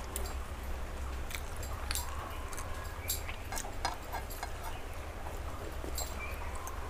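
Close-miked mouth sounds of eating paratha and soft curry by hand: chewing with a scatter of small wet clicks and lip smacks. A steady low hum runs underneath.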